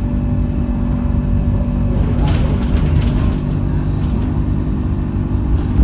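Alexander Dennis Enviro200 single-deck bus heard from inside the cabin: the diesel engine runs at a steady pitch, with a couple of light rattles from the bodywork.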